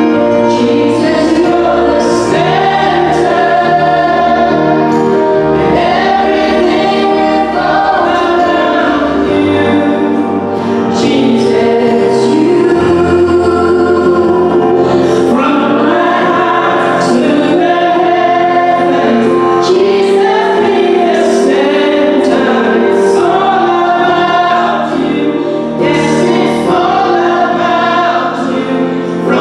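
A choir singing a gospel song with instrumental backing.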